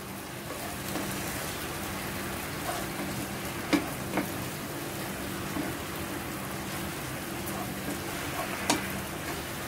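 Chicken pieces sizzling and bubbling in soy and oyster sauce in a non-stick frying pan while being stirred with a wooden spatula, with a few sharp knocks of the spatula on the pan, about four seconds in and again near the end.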